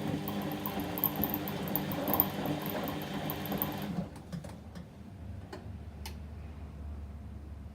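Whirlpool washing machine's drum motor running on a delicate wash cycle, a steady whir that stops about four seconds in. A few faint clicks and a low hum follow.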